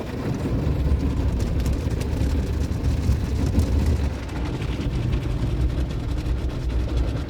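Automatic drive-through car wash working over the car, heard from inside the cabin: a steady low rumble with a hiss and faint scattered ticks on top.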